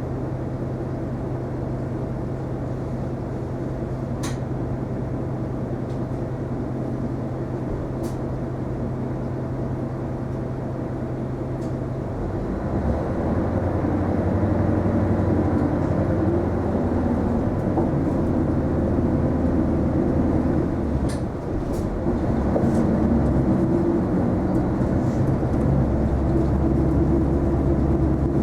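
Isuzu Erga non-step city bus's diesel engine heard from inside the cabin. It runs with a steady low note for about twelve seconds, then rises in pitch and gets louder as the bus pulls away and accelerates. There is a brief dip about two-thirds through, and a few light clicks.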